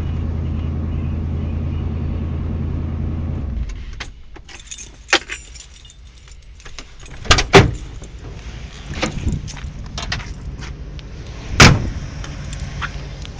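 1993 Ford Bronco engine idling steadily through Flowmaster 44 mufflers, then shut off a few seconds in. Afterwards keys jangle and there are sharp knocks: two close together about halfway through and a louder one near the end.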